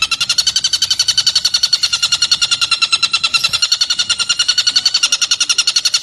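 Black-and-red broadbill (tengkek buto) calling: a fast, even run of short high notes, about ten a second, going on without a break.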